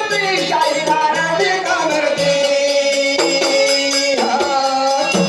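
Marathi kalgi shahiri folk music: a bending melody line over steady, rhythmic jingling percussion.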